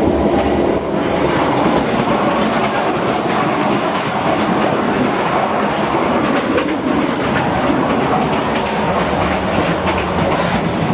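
Passenger train running, heard from inside the carriage: a steady rumble of the wheels on the track with frequent clicks and rattles of the rocking car.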